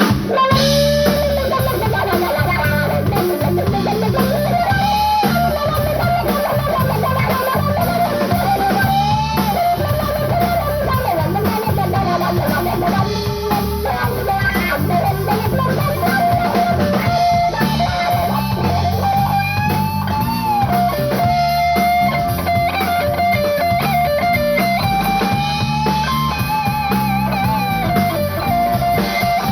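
Live rock band playing: a lead guitar line of bent, sustained notes over drum kit and bass guitar.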